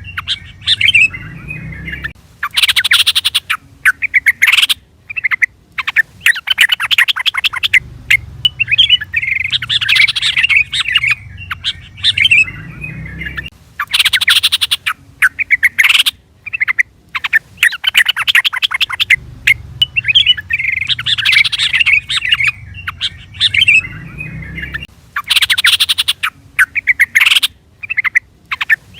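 Yellow-vented bulbul (trucukan) calling: loud, bubbling chattering phrases, with the same sequence of calls repeating about every eleven seconds as a looped call recording.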